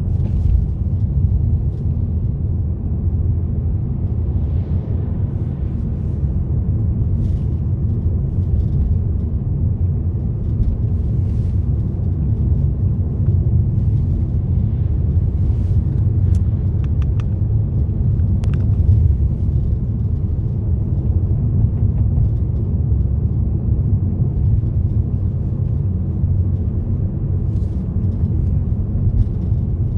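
Steady low rumble of a car driving along a road: tyre and engine noise, even in level throughout.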